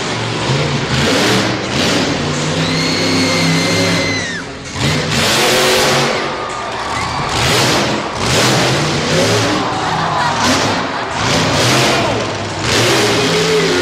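Monster truck engines revving hard, the pitch rising and falling repeatedly with the throttle. A steady high tone sounds for about two seconds early on and drops away at its end.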